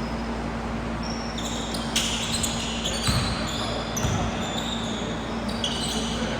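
A basketball dribbled during a game, bouncing about once a second, with short high sneaker squeaks on the court.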